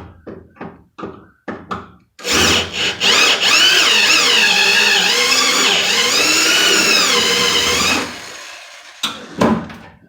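Power drill drilling the head off a window-regulator rivet in a steel truck door, the motor's pitch dipping and rising as the bit bites for about six seconds. Short knocks and clicks of handling come before and after.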